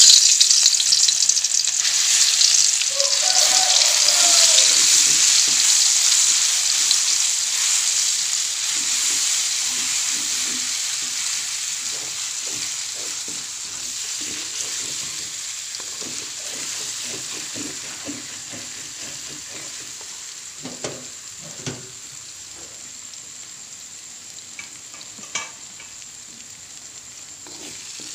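Ground spice paste of garlic, shallot, turmeric and ginger sizzling in hot oil in a wok, loud as it goes in and dying down gradually as it fries. A wooden spatula stirs it, with short scraping strokes against the wok in the later part.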